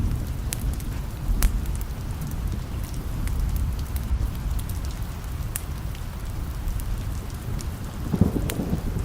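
Steady rain with a low rumble of distant thunder underneath, swelling a little louder near the end, and scattered sharp clicks.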